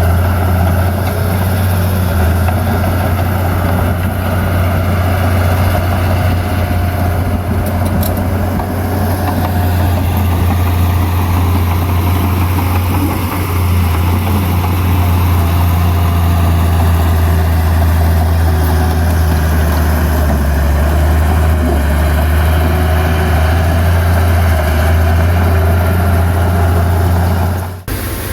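Heavy diesel engine of earthmoving machinery running steadily with a deep low hum, dipping briefly near the end.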